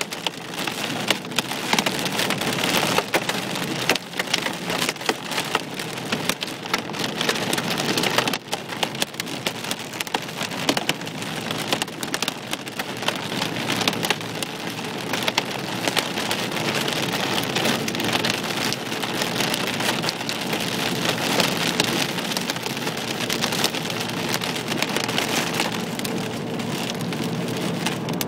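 Hailstones, nickel to quarter size, drumming on a car's roof and windshield as it drives through a storm: a dense rattle of hard hits over a steady rain-like hiss.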